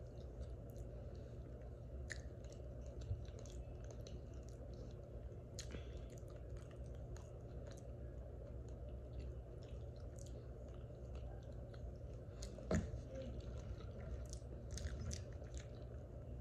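A person chewing a large mouthful of soft food, a loaded baked potato in Alfredo sauce: faint wet mouth clicks and smacks over a low steady hum, with one sharper click about three quarters of the way through.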